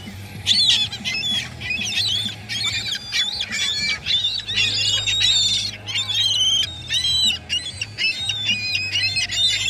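Gulls calling over and over, many squawking cries overlapping, over a low steady hum.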